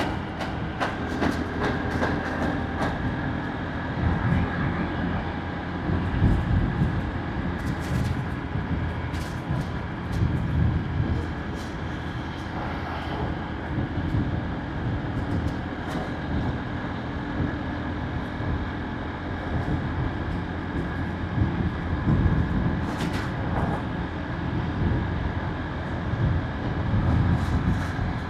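Motorbike riding along a road: steady engine and road noise with a gusty low rumble of wind on the microphone.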